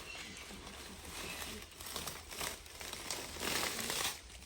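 Irregular rustling and crinkling, louder for a moment about three and a half seconds in.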